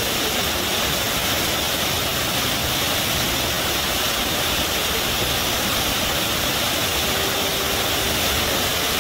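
Rushing river water gushing steadily, an even, unbroken rush.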